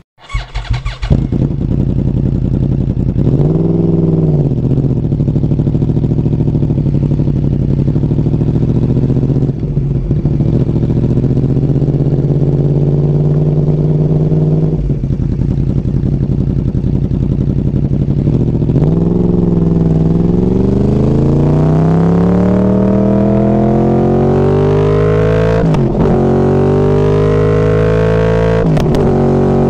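Yamaha R1's crossplane inline-four running through Hotbodies MGP Growler carbon-fibre slip-on mufflers while being ridden. It revs briefly a few seconds in, then holds steady pulls broken by short dips at gear changes. In the last third it climbs in pitch through long accelerating pulls.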